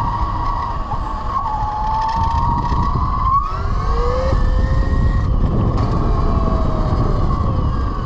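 A 12 kW Velimotors VMX12-F electric motorcycle's motor whining steadily under way over wind and road rumble. About three seconds in the whine breaks briefly, then several higher whines climb in pitch as the bike speeds up.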